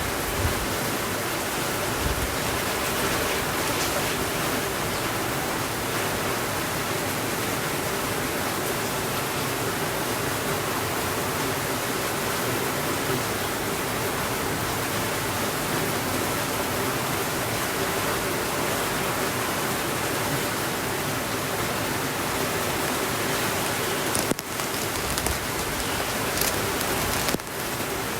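Steady, dense rainfall, an even hiss with no pattern, dipping briefly twice near the end.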